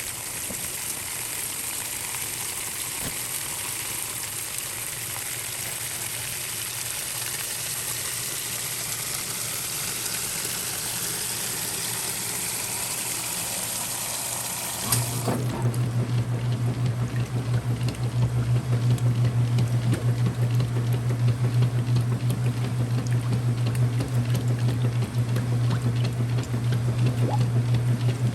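Early-2000s Whirlpool direct drive washer filling, water rushing into the porcelain tub with a steady hiss. About halfway through the hiss gives way to a steady motor hum with a pulsing slosh as the washer starts agitating.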